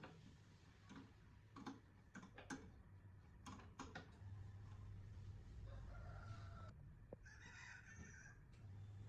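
A few faint light clicks and taps, then a rooster crowing faintly over a low steady hum about two-thirds of the way in.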